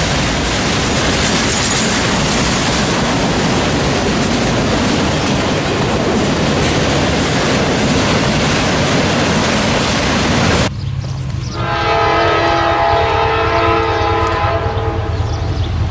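A freight train rolling past with a loud, even rushing noise. After an abrupt cut about two-thirds of the way in, a diesel locomotive's multi-chime air horn sounds in a few blasts over a low engine hum.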